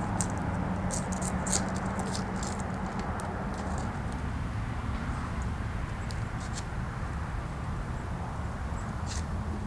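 Wood campfire crackling, with sharp pops clustered in the first four seconds and again near the end, over a steady low hiss.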